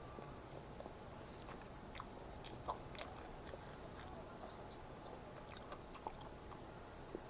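A person chewing and biting food close to the microphone, faint, with scattered small crisp clicks and crunches.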